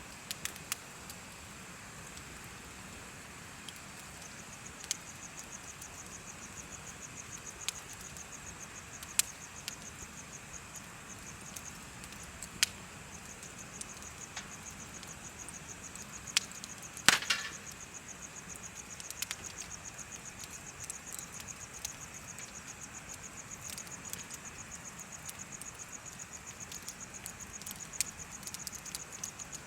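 Insects chirping in a fast, steady, high-pitched trill, joined by the crackle of a bonfire: scattered sharp pops, the loudest about halfway through.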